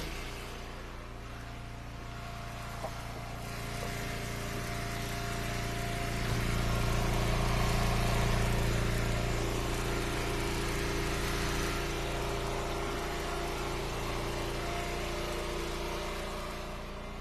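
Pickup truck engine running steadily, growing louder in the middle and easing back toward the end.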